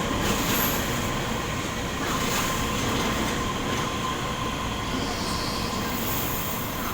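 Electric passenger train running through the station at low speed, with a steady rumble and brief high-pitched wheel squeals on the rails.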